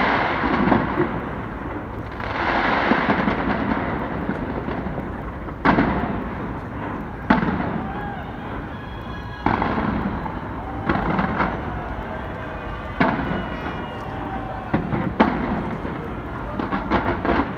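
New Year's fireworks display: shells burst in a series of sharp, loud bangs one to two seconds apart, with crackling and a rumbling echo between the bangs.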